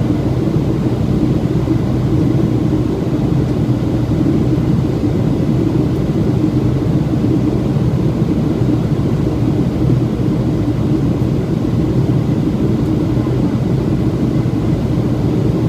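Boeing 737-700 in flight, heard from inside the aircraft: a steady, unbroken low drone of engine and airflow noise with a constant low hum.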